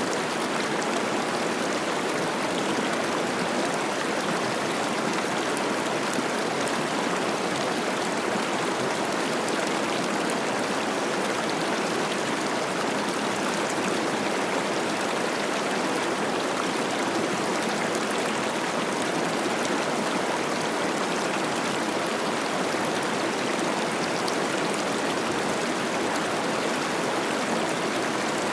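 Mountain river running high with spring snowmelt, a steady rushing and babbling of water over rocks.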